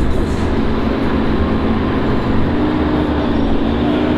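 Steady low rumble of a running motor vehicle, with a faint humming tone that grows a little stronger about halfway through.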